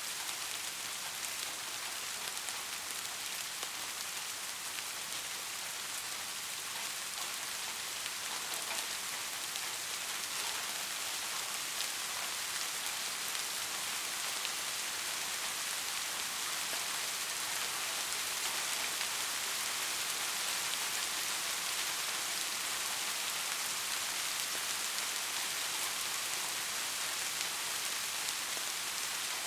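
Steady rain falling: an even hiss with scattered individual drop ticks, growing a little louder about halfway through.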